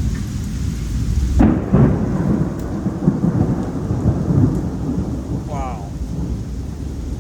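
Thunder from a supercell thunderstorm: a sudden loud clap about a second and a half in that rumbles on for several seconds, over a steady hiss of rain.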